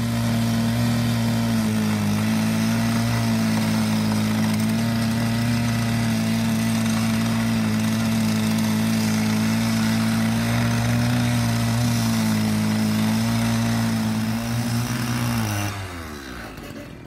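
Engine of a construction machine running steadily at high speed, then slowing with a falling pitch about fifteen seconds in.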